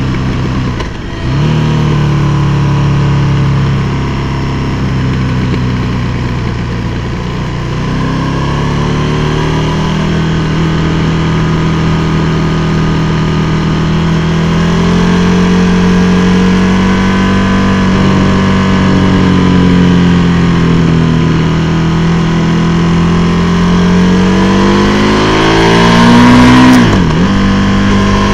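KTM 1290 Super Duke R's V-twin engine heard from onboard while riding, its note rising and falling with the throttle. There is a brief dip about a second in, and near the end a sharp rise in pitch that drops away suddenly.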